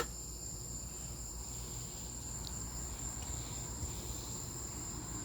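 Steady, high-pitched chirring of crickets, with one sharp click at the very start.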